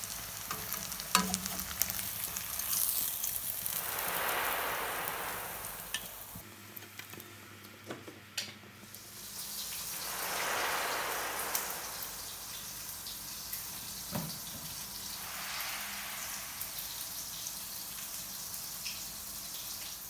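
Breaded pork chop shallow-frying in oil in a stainless steel pan: a steady sizzle that swells and eases every few seconds, with a few sharp clicks.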